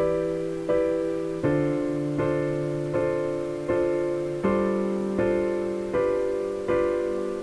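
Background music: a gentle piano playing slow, evenly spaced chords, each struck and left to ring and fade, about one every three-quarters of a second.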